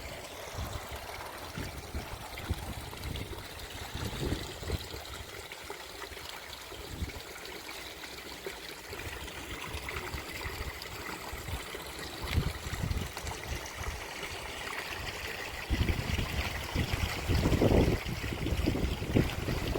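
Mineral spring water trickling and running over travertine terraces. Wind buffets the microphone in low gusts, which grow heavier over the last few seconds.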